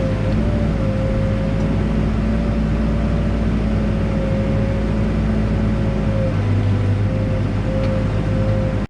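Backhoe's diesel engine and hydraulics running steadily under work, with a steady high whine over the engine.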